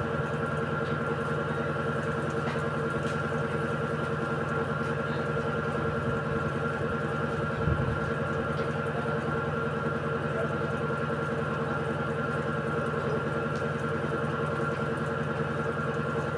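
Electrolux Essential Care 14 kg washing machine running with a steady mechanical hum, with a brief low thud about halfway through.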